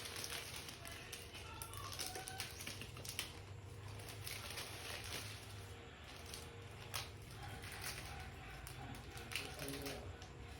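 Plastic snack packets and bags being handled and packed, with scattered light clicks, taps and crinkles over a steady low hum.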